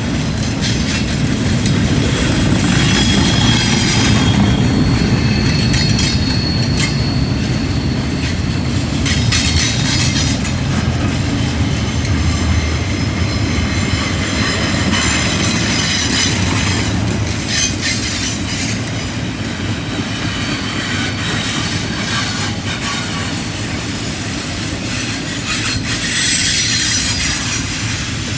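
Freight train of double-stack container cars rolling past on a curve: a steady rumble of steel wheels on rail with repeated clicks over the rail joints. High wheel squeals from the flanges rubbing the rail on the curve come and go in the first several seconds.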